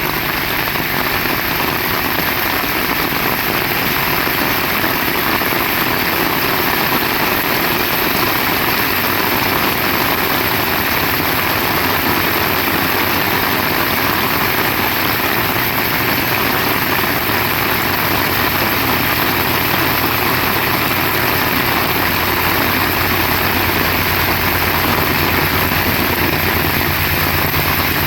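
Heavy rain falling steadily, with a low engine hum underneath that grows stronger over the last several seconds.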